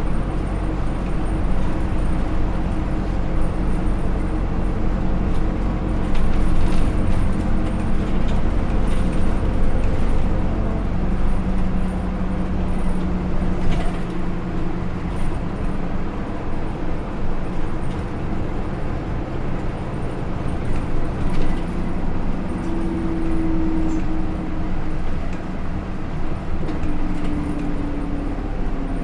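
Running sound of a Hino Rainbow II route bus heard from inside the cabin. Its Isuzu 4HK1-TCH four-cylinder turbodiesel and Aisin automatic transmission carry on under road noise, with the engine note drifting up and down in pitch as speed changes.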